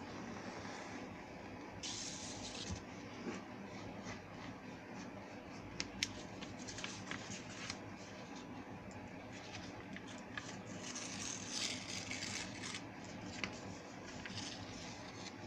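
Paper being handled and folded: rustling in short spells, with scattered crisp clicks and taps as creases are pressed.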